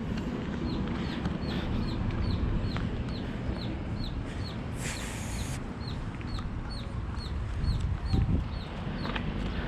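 Chickens peeping in a steady series of short, high, falling cheeps, about three a second, over steady outdoor background noise. A brief hiss about five seconds in.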